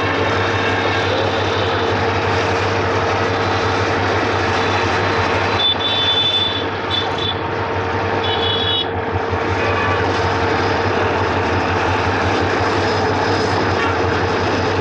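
Freight train rolling past, a steady loud rumble of wheels on rails, with a few brief high wheel squeals about six and eight seconds in.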